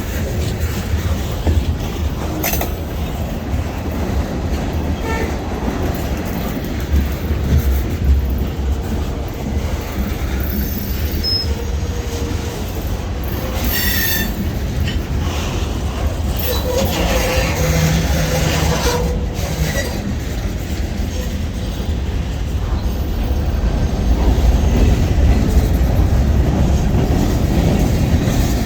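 Freight train rolling past with a steady low rumble of wheels on rail, brief metallic wheel squeals in the middle and a few sharp clanks.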